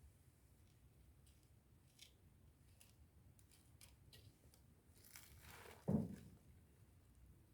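Quiet handling sounds: a few faint clicks, then about five seconds in a brief rustle ending in a dull thump.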